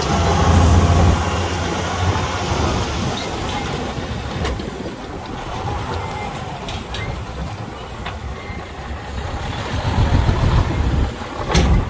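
Heavy diesel earthmoving machinery running with a low rumble that is louder at the start and again near the end, with a short hiss about half a second in and a few light clanks.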